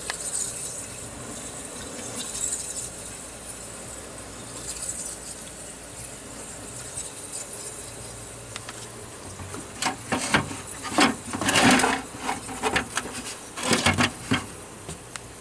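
Vintage Aqua-Dri dehumidifier's fan turning with a faint, steady whir, its bearing still sounding good. About ten seconds in comes a run of clicks, knocks and rubbing from the unit being handled.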